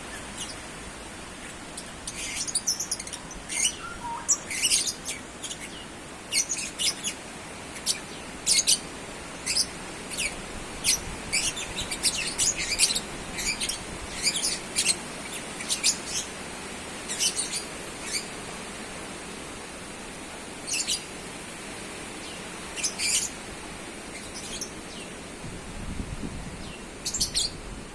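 Small birds chirping in short, sharp high calls, many times and irregularly, over a steady rushing noise of strong wind.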